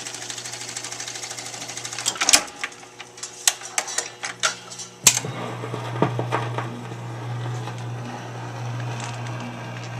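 Seeburg AY160 jukebox mechanism, freshly degreased and oiled, cycling to play a record: a fast, even mechanical chatter, then a series of sharp clicks and clunks, then a steady low hum from about halfway in.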